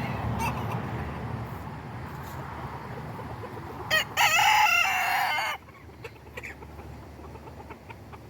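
A rooster crowing once, about four seconds in: a short crow lasting about a second and a half that cuts off sharply, with a brief note just before it.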